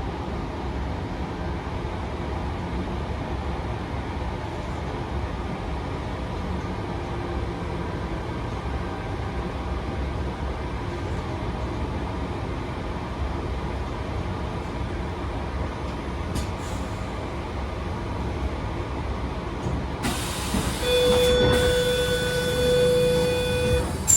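Inside a Sydney Trains Tangara carriage running into a station: a steady rumble of the train on the rails. About three seconds before the end, a louder held tone sounds for about three seconds and then stops.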